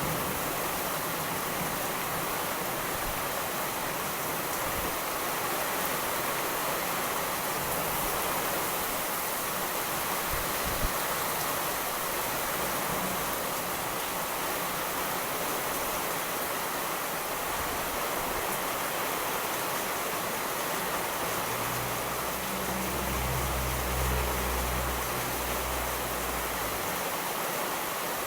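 Steady, heavy rain with a low rumble of distant thunder rolling in about three quarters of the way through.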